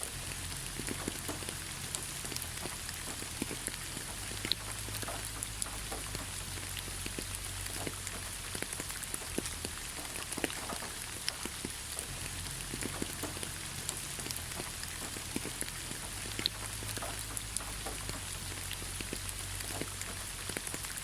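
Steady rain falling: a continuous hiss with many separate drops ticking close by, and a faint low rumble underneath.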